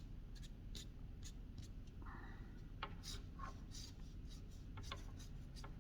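Faint, short strokes of a pen or pencil drawing on paper, marking vein details onto cut-out paper leaves.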